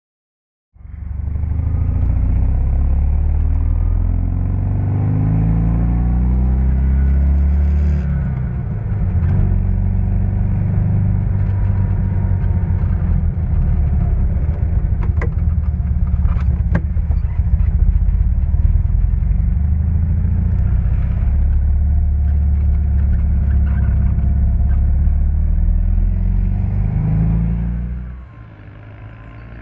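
Fiat Nuova 500's Giannini-tuned 650 cc air-cooled two-cylinder engine with a sports exhaust, heard from inside the cabin while driving. The revs rise over the first several seconds, dip briefly, then the engine runs on steadily, and the sound drops off suddenly near the end.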